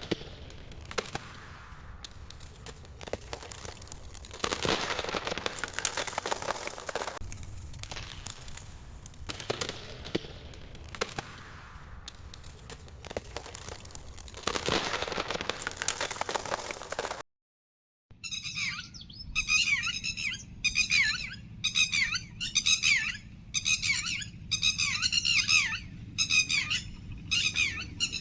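Fire crackling and rushing, swelling and fading with many sharp pops. About seventeen seconds in it cuts off, and after a moment's silence a bird calls over and over in short warbling chirps.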